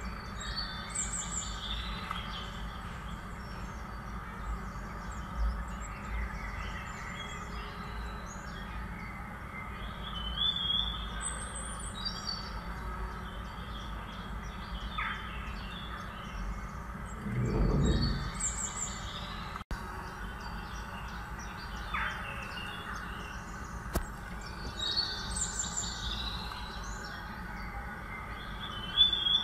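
Birds chirping and calling in short repeated phrases over a steady background hiss, with one brief louder low thud about two-thirds of the way through.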